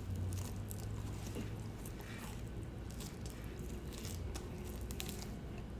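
A person chewing food close to the microphone, with small scattered mouth clicks over a low steady hum.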